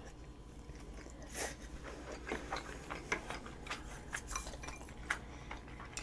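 A person chewing a mouthful of curry rice close to the microphone, with soft, irregular wet clicks and smacks.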